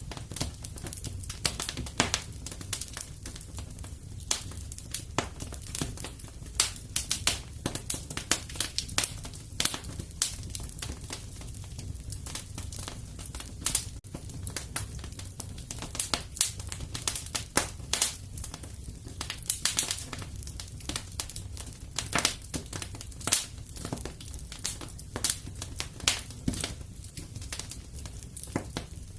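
Fire in a fireplace crackling, with dense irregular snaps and pops over a low steady rumble.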